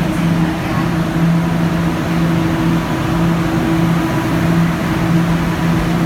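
Guangzhou Metro Line 1 train running at a steady speed: a steady low hum in two tones over even running noise.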